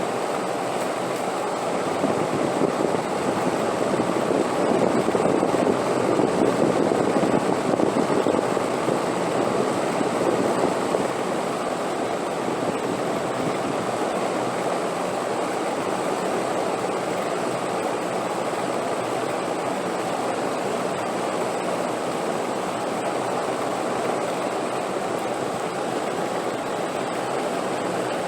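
Steady rushing wind, swelling louder for several seconds in the first half and then easing back to an even blow.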